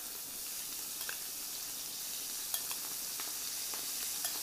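Small squid and prawns sizzling in hot oil in a frying pan: a steady hiss with a few small pops, the pieces spread in a single layer so they sear rather than stew in their own juice.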